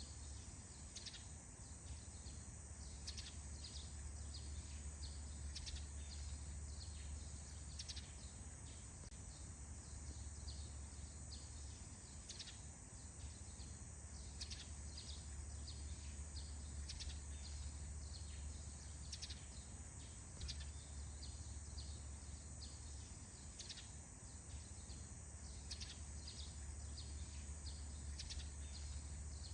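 Faint forest ambience: scattered short bird chirps over a steady high insect-like hiss and a constant low rumble.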